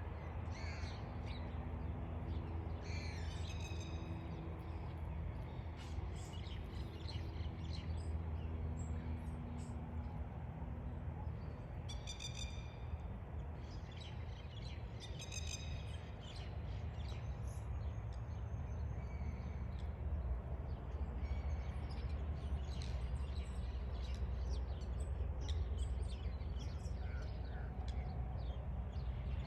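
Birds calling and chirping outdoors, with a few louder, harsher calls standing out now and then, over a steady low rumble.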